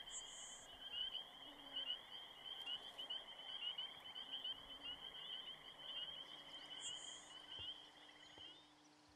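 Marsh wildlife chorus: many rapid chirping trills overlapping in a dense, steady band that fades out near the end. Two short, very high, thin buzzes sound over it, one at the start and one about seven seconds in.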